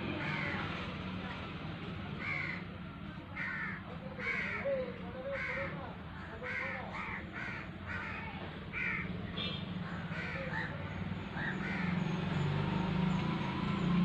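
A bird calling over and over in short calls, about one or two a second, over a steady low hum.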